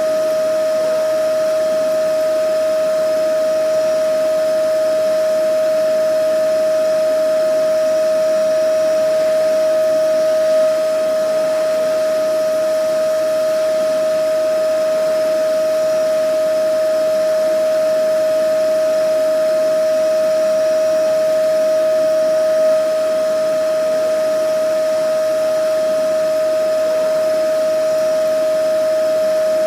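Vacuum cleaner running steadily: a constant motor whine over an even hiss of rushing air.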